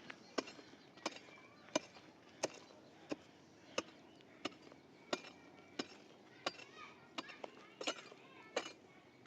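A hand tool striking over and over at an even pace, about three blows every two seconds.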